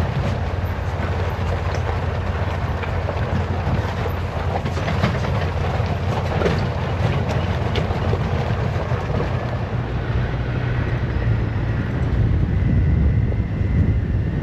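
Polaris Ranger side-by-side UTV driving, its engine a steady low drone with frequent rattles and knocks from the machine over rough ground.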